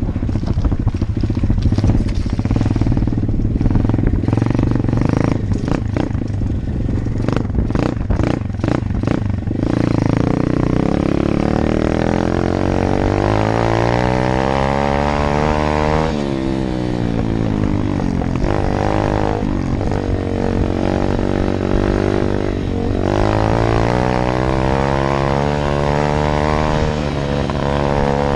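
A 125 cc Apollo dirt bike's single-cylinder four-stroke engine on the move. For the first ten seconds the engine runs low under clattering and rattling. After that the revs climb in rising sweeps and drop back again several times as the bike accelerates and backs off.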